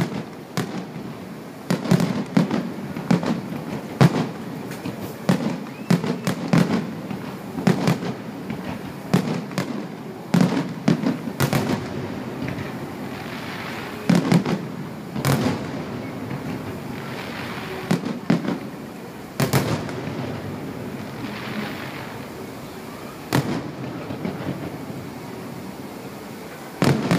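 Aerial firework shells bursting in a long run of bangs: close together for about the first twelve seconds, then fewer and further apart.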